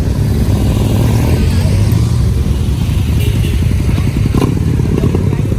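Motorcycle engine running steadily at a low, even pitch.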